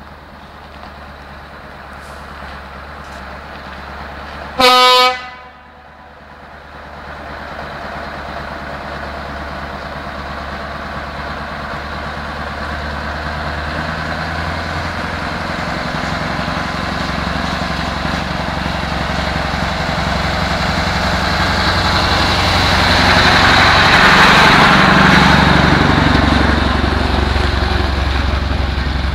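Scania 144-530's V8 diesel engine running and growing steadily louder as the truck approaches, loudest a few seconds before the end, then easing off slightly. About five seconds in, one short, loud blast of the truck's air horn.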